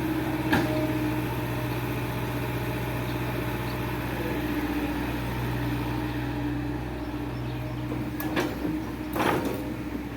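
Diesel engine of heavy farm or earthmoving machinery running at a steady speed, with a sharp click about half a second in and two metallic knocks near the end.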